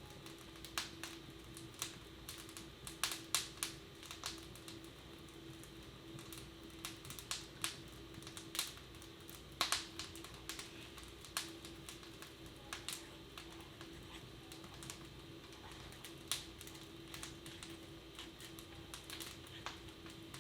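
Wood fire in a fireplace crackling: quiet, irregular snaps and pops, sometimes in quick clusters, over a steady low hum.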